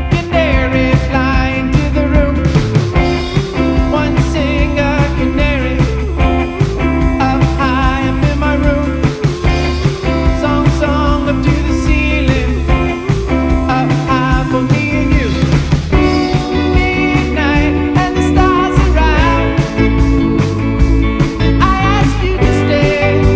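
Rock band song with guitars, bass and drums playing a steady beat, with wavering sung or guitar melody lines over it.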